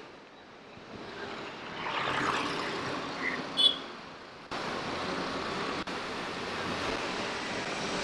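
Street traffic ambience heard from a moving bicycle, vehicles passing in a steady noisy wash. About three and a half seconds in there is a brief high-pitched sound, the loudest moment. About a second later the noise jumps up abruptly, and a short dropout follows.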